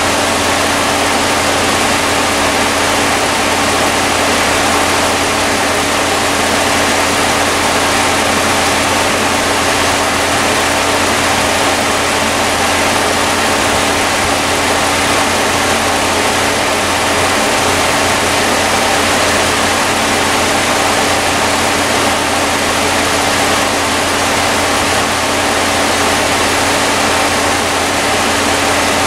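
Chevy Impala's engine idling with the air conditioning running: a steady, loud running noise with a low hum.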